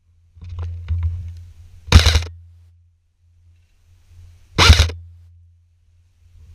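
Two single shots from an airsoft gun, about two and a half seconds apart, each a sharp crack with a short tail. Fainter rustling and handling clicks come before the first shot, over a steady low hum.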